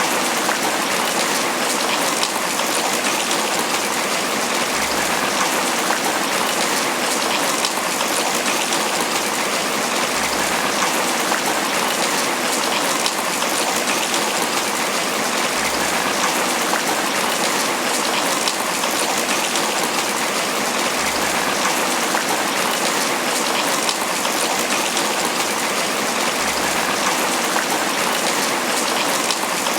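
Tropical rain falling steadily on banana leaves, a dense, even hiss of many drop hits that keeps the same level throughout.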